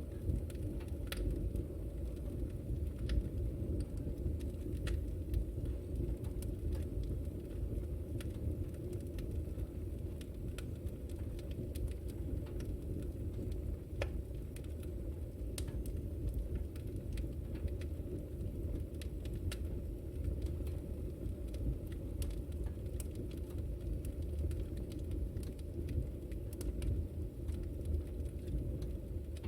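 Wood fire burning in a fireplace: a steady low rumble of the flames with scattered sharp crackles and pops every second or so.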